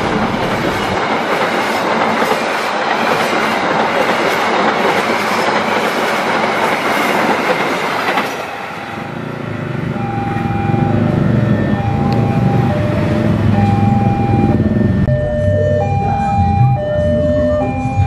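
Passenger train coaches passing at speed over the rails, a dense steady rush of wheel and carriage noise, which stops about eight seconds in. Background music with a simple repeating melody of held notes follows.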